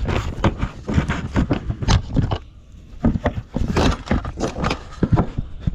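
A quick, irregular run of knocks, scrapes and rustles, with a short lull about two and a half seconds in.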